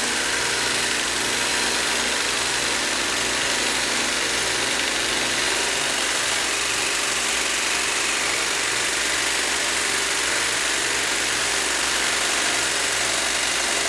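Belt grinder with a fine micron abrasive belt running steadily: an even motor hum under a constant high hiss.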